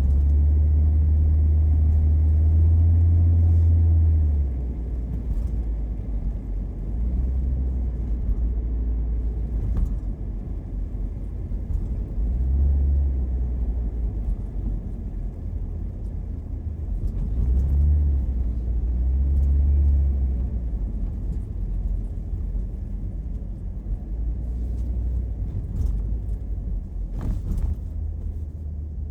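A car driving through snow, heard from inside: a steady low rumble of engine and road noise. It is loudest for the first few seconds, then eases and swells again a few times.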